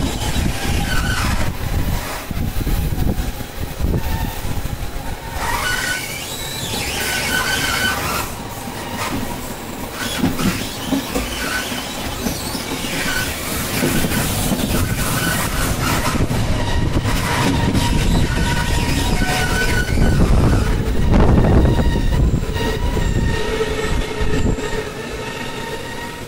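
Bernina Express train running, heard from inside the carriage: a steady rumble of wheels on the rails, with repeated short, high-pitched wheel squeals as it takes the curves.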